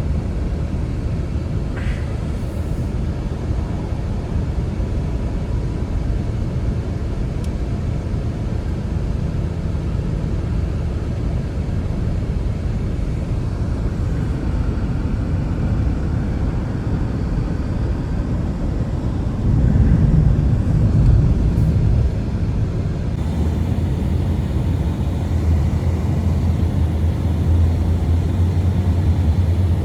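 Strong blizzard wind rushing and buffeting the microphone in a steady low rumble, with a louder gust about twenty seconds in. A steady low hum joins it near the end.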